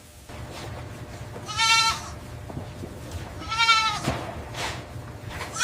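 Goats bleating: two high-pitched bleats of about half a second each, with a third beginning at the very end.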